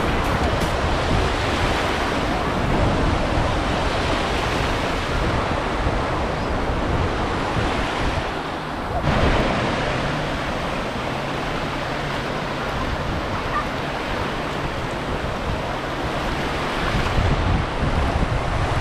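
Steady rushing noise of wind on the microphone, with a brief break about nine seconds in.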